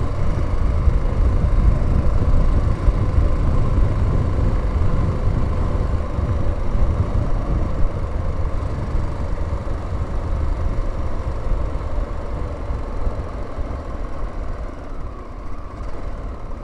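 Honda XL600R's 589 cc single-cylinder four-stroke engine running under way, with heavy low rumble and wind noise on the helmet camera's microphone. It grows gradually quieter over the second half.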